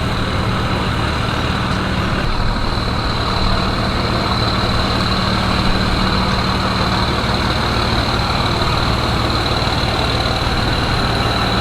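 An engine idling steadily, with a thin high whine running over a low hum.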